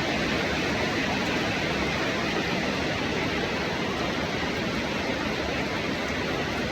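Steady rain, an even hiss with no separate drops or other sounds standing out.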